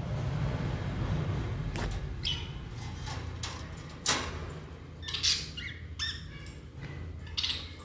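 Budgerigars giving short, scattered chirps and squawks, one every second or so, beginning just under two seconds in, over a low steady hum.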